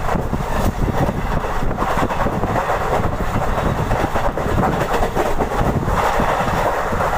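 Passenger express train running along the track, heard from on board: a steady rumble of wheels on rails.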